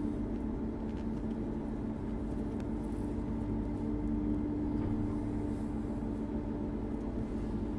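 Claas Jaguar 8700 forage harvester running, heard from inside its cab as a steady drone with a constant low hum, while its header is folded hydraulically.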